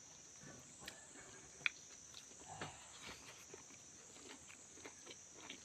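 Quiet chewing and small mouth clicks of a person eating smoked pork with fermented soybean, with one sharper click about a second and a half in, against a steady high-pitched hiss.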